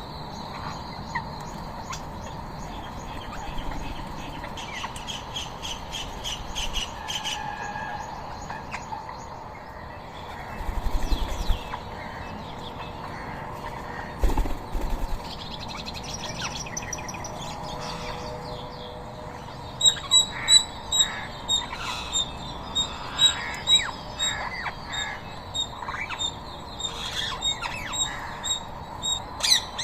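Wild birds at a feeding spot, rose-ringed parakeets among them, squawking and chirping. Two brief bursts of low thuds come about a third and half of the way in. From about two-thirds in there is a quick, regular run of high repeated calls.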